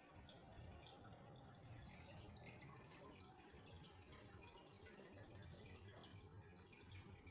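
Near silence with faint, scattered water drips over a low, steady hum.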